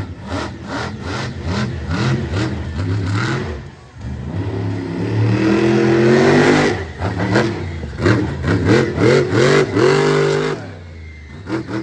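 Monster truck engine revving hard in repeated throttle bursts. It dips briefly about four seconds in, then holds a long high rev, then gives a run of quick blips, and eases off near the end.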